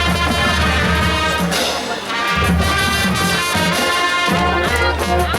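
Marching band playing, brass on full held chords over long low brass bass notes that break off briefly about two seconds in.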